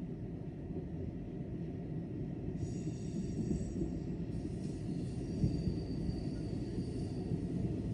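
Steady low rumble of railway station ambience, with a thin high-pitched whine of several tones coming in about a third of the way through, giving way to a single high tone that fades near the end.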